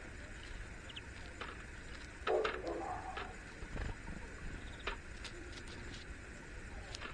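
A dove cooing about two seconds in, over a steady outdoor background with a few scattered sharp clicks.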